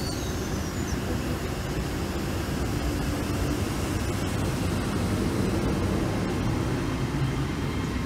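LNER Class 801 Azuma electric train pulling out alongside the platform: a steady rumble of wheels and running gear that grows slightly louder as the coaches pass.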